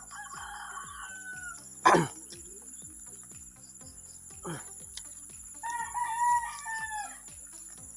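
A rooster crowing twice: a short crow at the start and a longer, held crow about six seconds in. Crickets keep up a steady high drone throughout. A loud, short close sound about two seconds in is the loudest thing, and a fainter one comes about four and a half seconds in.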